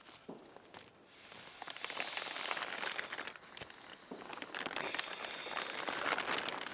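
Rustling and crinkling made of many small crackles, getting louder about two seconds in.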